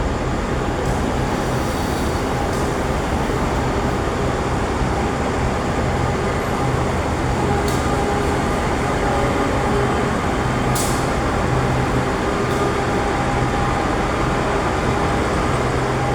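Train pulling into a station: a steady engine and rolling noise with a low hum, and a few brief sharp high clicks from the wheels and rails.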